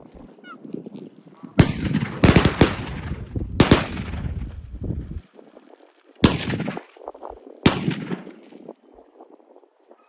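Shotguns fired in a ragged volley at waterfowl: about six shots over six seconds, several close together and then two more spaced out, each followed by a short ringing tail.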